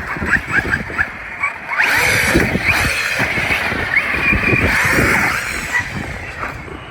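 Radio-controlled car driving: its small electric motor whines, rising in pitch again and again as it accelerates, over crackling and knocking from the tyres and chassis on the ground.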